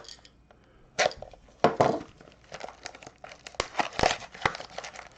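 Trading-card box packaging being handled and torn open: irregular crinkling and tearing with a series of sharp clicks and taps, the loudest rustles about a second and two seconds in.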